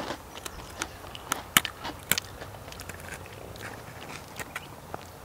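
Biting and chewing a freeze-dried astronaut ice cream sandwich: a scattering of crisp crunches and clicks at uneven intervals.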